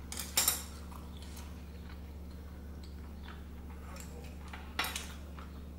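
Close-up chewing and mouth sounds of a person eating, with a few sharp clicks near the start and end. A steady low hum runs underneath.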